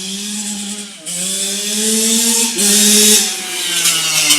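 Yamaha YZ85 two-stroke dirt bike engine revving hard under acceleration, its pitch climbing, dropping sharply at gear changes about a second in and again around two and a half seconds in, then falling away near the end as the throttle eases off.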